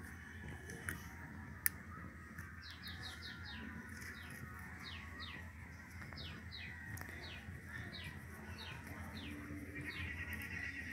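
A small bird chirping: faint, short, downward-sliding chirps in quick runs, repeating every half second or so. A single sharp click comes just before the chirps begin.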